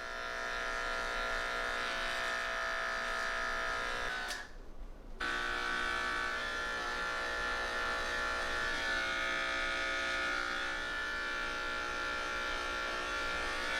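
Electric pet grooming clippers buzzing steadily while a matted longhaired cat is groomed; they cut out for under a second about four seconds in, then run again.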